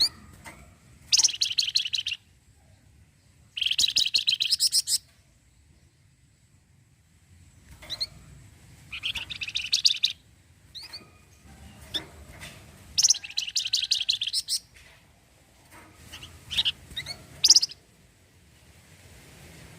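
A flamboyan (wergan jawa) songbird singing its chattering 'cretet' song: bursts of fast, high, rattling notes about a second long, five of them, with short single chirps in between.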